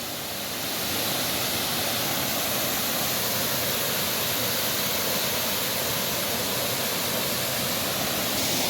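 Waterfall rushing steadily: an even, unbroken noise of falling water that gets a little louder about a second in.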